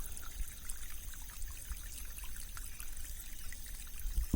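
Monsoon-swollen stream rippling and trickling, with many small tinkly bubbling sounds. A brief low thump near the end.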